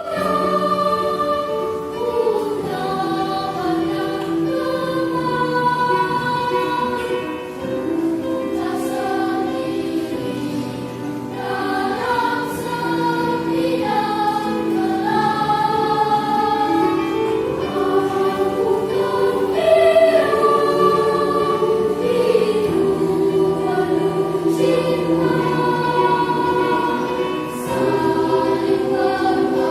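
Church choir singing in several-part harmony, moving through a sequence of long held chords.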